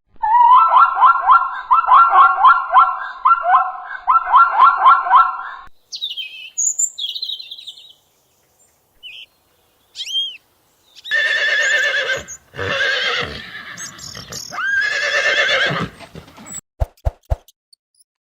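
Zebra calling: fast runs of high yelping barks in rapid series for about five seconds, then short high chirps and a few more loud, wavering barking calls later on.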